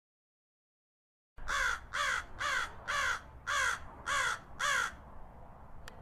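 Seven bird calls, about two a second, each falling in pitch, starting about a second and a half in.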